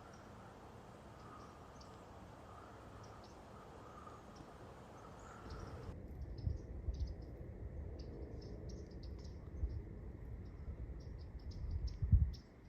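Quiet outdoor ambience with many short, high chips or ticks, thicker from about halfway through. Low bumps run under them, and one sharp thump comes near the end.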